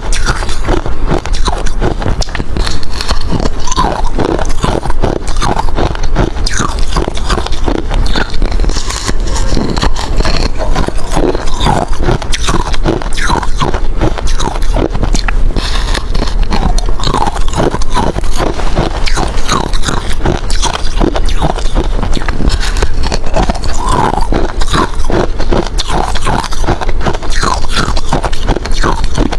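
A person biting and chewing hard crushed ice close to the microphone: dense, continuous crunching and cracking without a break.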